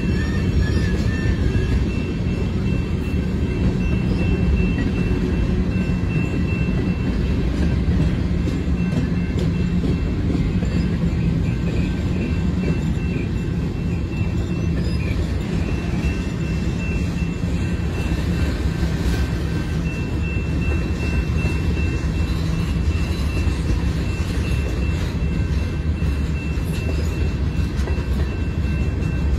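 Freight cars of a mixed freight train rolling past: a steady low rumble of wheels on rail, with a thin steady high tone above it.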